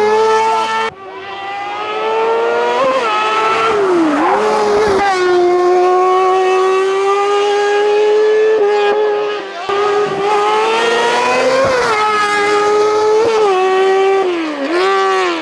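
Racing car engine at high revs on a hillclimb run, held at a steady high pitch with several brief dips and climbs in pitch as the driver lifts and changes gear.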